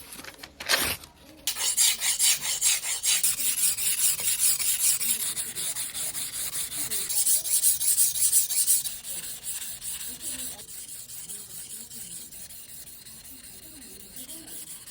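Sashimi knife blade scraping back and forth on a whetstone in rapid, even strokes, grinding out a chipped edge. The strokes are louder for the first several seconds and become quieter from about ten seconds in.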